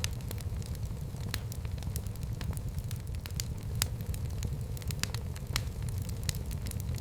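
Fire burning in a fireplace: irregular sharp crackles and pops, a few each second, over a steady low rumble of the flames.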